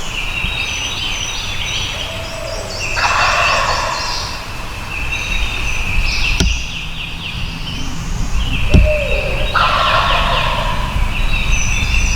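Wild turkey gobblers gobbling repeatedly, several rattling gobbles one after another, two of them louder and fuller. A sharp knock comes about two-thirds of the way through.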